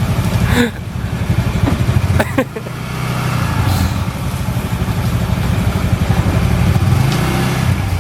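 Motorbike engine running while riding, a fast low putter that eases off briefly twice in the first three seconds, then pulls steadily louder.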